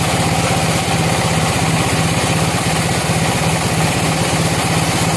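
An engine running steadily at an even speed, with no rise or fall in pitch.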